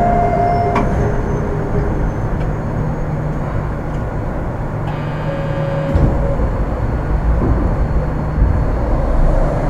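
Astram Line 6000-series rubber-tyred train heard from inside the car while running, with a steady rumble. Thin whining tones from its armature thyristor chopper control come and go over the rumble.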